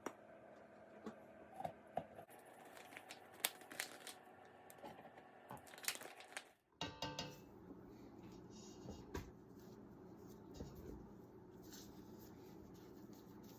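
Quiet kitchen food-preparation sounds: scattered light clicks and taps of utensils and food being handled, with a brief dropout and change of background about seven seconds in.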